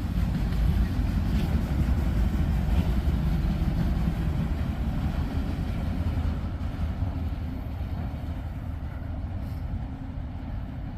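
Low rumble of a freight train's last cars rolling past, fading gradually in the second half as the train moves away.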